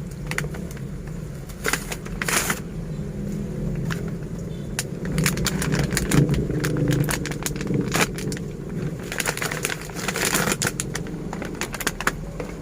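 Toy packaging being opened by hand: irregular crackling, scraping and quick clicks as the box and wrapping are handled and pulled apart, over a steady low hum.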